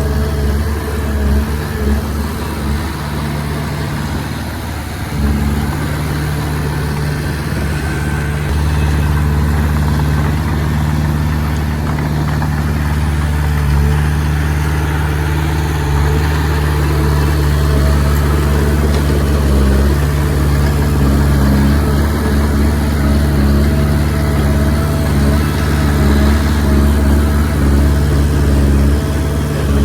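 Komatsu D20P bulldozer's diesel engine running steadily under work, a continuous low hum with a slight change in pitch about five seconds in.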